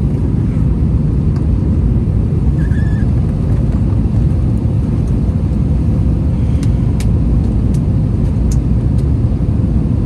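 Steady low roar inside the cabin of an Airbus A321 with IAE V2500 engines, with a few faint clicks in the second half.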